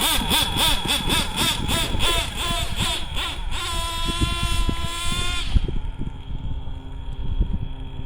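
Two-stroke nitro RC truck engine (JL MAX .28) revving up and down rapidly, then holding a steady high-pitched scream for about two seconds. It cuts off suddenly about five and a half seconds in, leaving a low steady hum.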